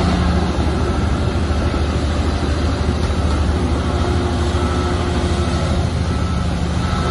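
Heavy diesel construction machinery running steadily with a deep, continuous rumble, with a few faint brief high squeaks over it.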